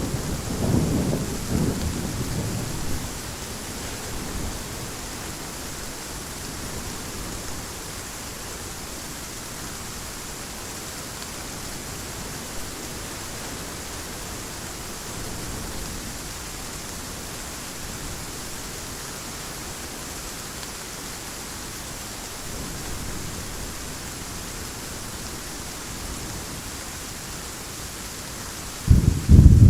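Heavy rain falling as a steady hiss. A low thunder rumble dies away over the first few seconds, and a sudden loud clap of thunder breaks in near the end.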